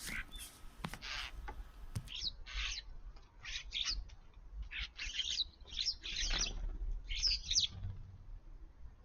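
Small garden birds chirping and chattering in a quick run of short, overlapping calls.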